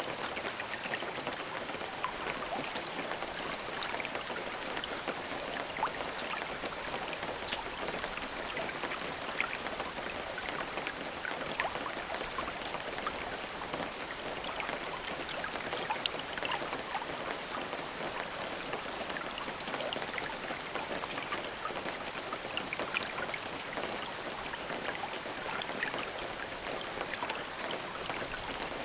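Steady rain falling with many separate drops ticking on a surface, with no thunder.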